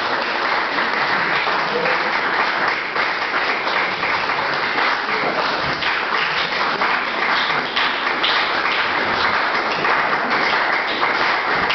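Audience applauding steadily, many hands clapping at once, after the song has ended.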